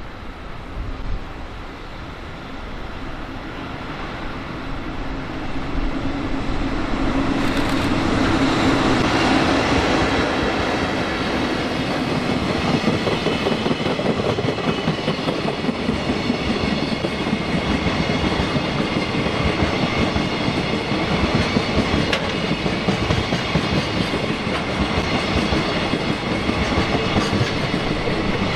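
JR Freight EF65 electric locomotive approaching and passing, loudest about eight to ten seconds in. It is followed by a long string of Koki container flatcars rolling by, their wheels clicking steadily over the rail joints.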